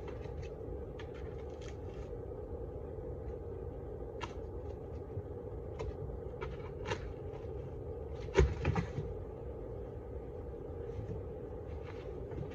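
Steady buzzing hum of a large honeybee colony, with small scattered clicks and scrapes and one louder knock about eight seconds in.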